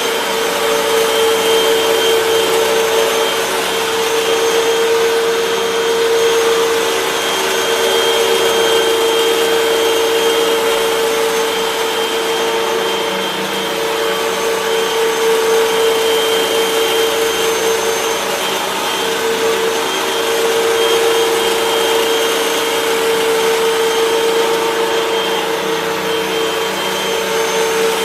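Hoover WindTunnel 3 Pro Pet bagless upright vacuum cleaner running steadily: a strong motor hum with a thin high whine above it, the level swelling and dipping slightly every few seconds.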